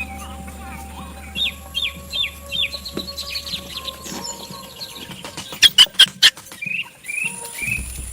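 Bird chirping in a run of short, falling calls about two or three a second. A quick series of sharp knocks, the loudest sounds, comes a little past the middle.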